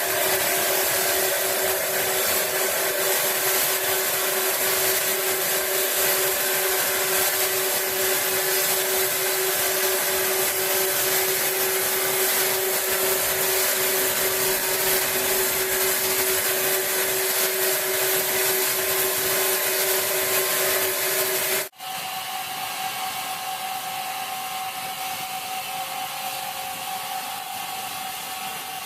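Large sawmill saw machinery running with a steady loud whine over a noisy hiss. About three-quarters of the way through, the sound cuts off abruptly and a quieter, steady machine hum with a higher tone takes over.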